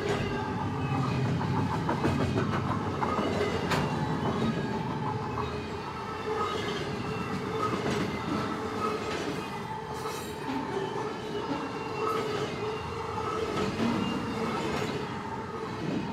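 Double-stack container freight cars rolling steadily past at close range: a continuous rumble and clatter of steel wheels on the rails, with occasional sharp clicks and brief high tones now and then.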